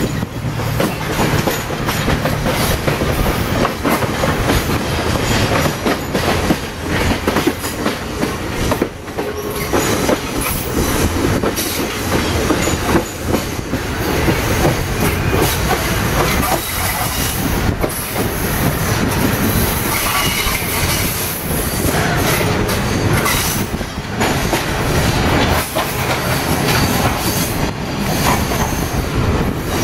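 Passenger train running along the track, heard from inside the moving carriage: a steady rumble with the wheels clattering over rail joints, and a faint high squeal from the wheels about twenty seconds in.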